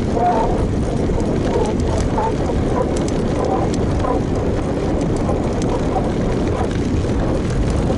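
Steady wind rush and rumble on a helmet- or bike-mounted action camera's microphone while a road bike is ridden, with faint short chirps on top.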